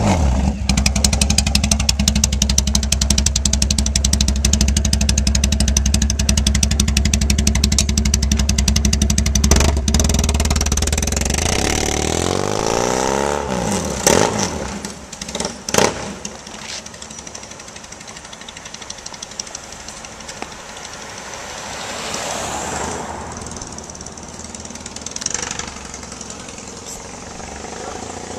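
Triumph Bonneville T100 parallel-twin engine running through an open-flow custom exhaust, its carburettors not yet re-jetted for it. A loud, steady idle runs for about ten seconds, then the sound drops away and the pitch glides. Two sharp cracks follow, then quieter running with a couple of swells near the end.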